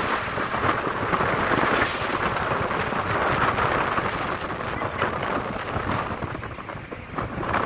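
Wind buffeting the microphone on a moving boat: a dense rushing noise that rises and falls in gusts.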